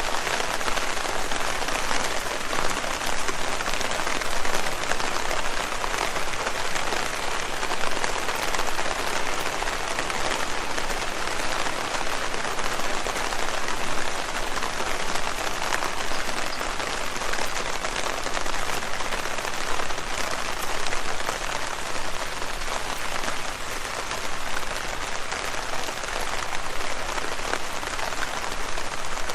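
Steady rain falling on leaves: a dense, even patter of many small drops.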